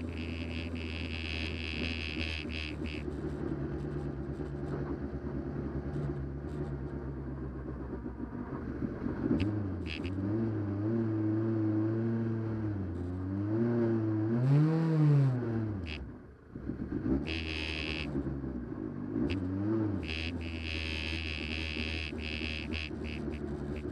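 Rally car engine heard from inside the cabin, running steadily at low revs, with the revs rising and falling several times in the middle. About sixteen seconds in the engine sound briefly drops away almost to nothing before it runs steadily again.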